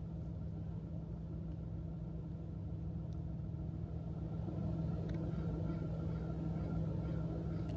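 Vehicle engine idling: a steady low rumble with a constant low hum, getting slightly louder about halfway through.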